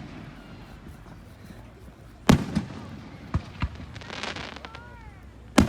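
Fireworks shells bursting: a loud bang about two seconds in, followed by a few smaller pops and a brief crackle, then another loud bang at the end, each ringing on after the hit.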